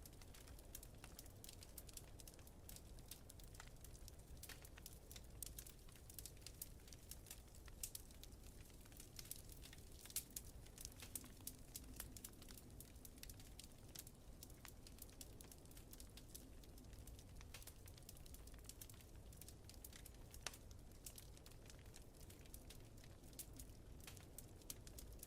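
Faint wood fire crackling in a fireplace: scattered small pops and snaps over a low, steady rumble.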